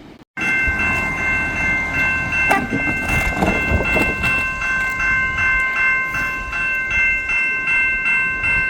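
Railroad grade-crossing warning bell ringing in a fast, even rhythm as the crossing signals activate and the gates come down for an approaching train.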